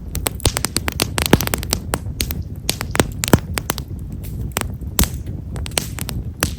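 Himeshara (Stewartia monadelpha) firewood burning in a bonfire, crackling with many small, sharp pops at irregular intervals, several a second, over a low steady rumble. The fine, close-spaced crackle is typical of this wood.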